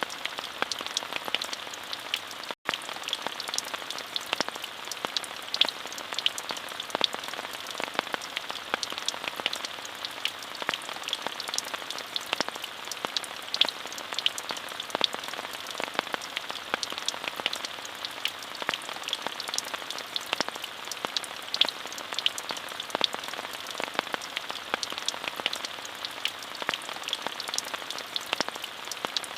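Steady rain falling, with many individual drops striking close by as sharp ticks over an even hiss. The sound cuts out for an instant about two and a half seconds in.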